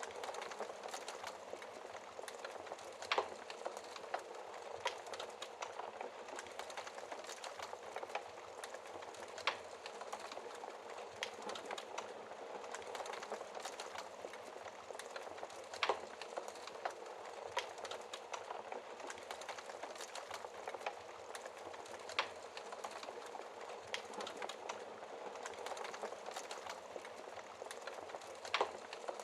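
Wood fire crackling in a fireplace: a steady hiss with many small irregular crackles and about four sharper pops.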